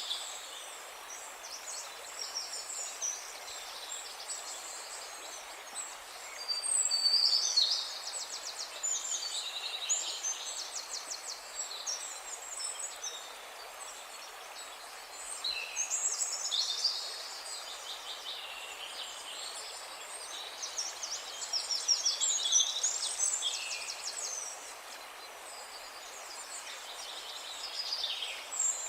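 Several songbirds singing and chirping in overlapping bouts of fast trills and high chirps, over a steady background hiss.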